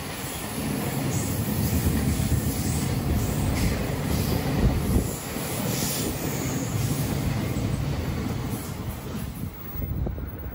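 Freight train passing close by: the wagons rolling and clattering over the rails in a continuous rumble, which thins out near the end.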